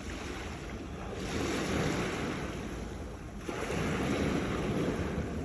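Sea waves breaking against rocks, two surges of wash one after the other over a steady low rumble.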